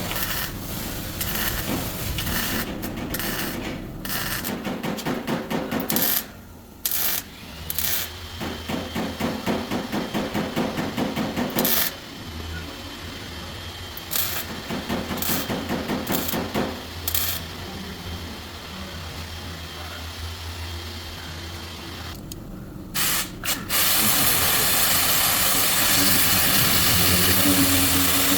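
Body-shop power tool work: a fast, stuttering mechanical rattle broken by short pauses, then a steadier hum, and from about three quarters of the way in a louder, even noise that does not let up.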